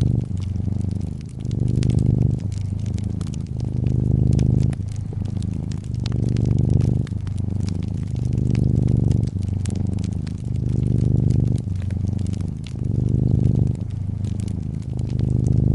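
A domestic cat purring close up, the purr swelling and easing with each breath about every two seconds, over the small pops and crackles of a fireplace fire.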